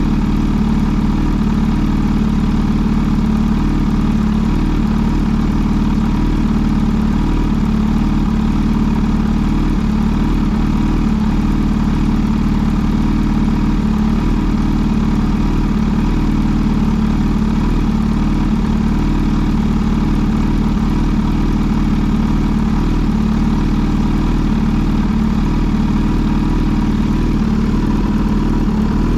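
Kawasaki Z H2 SE motorcycle's supercharged inline-four engine idling steadily, holding an even note with no revs.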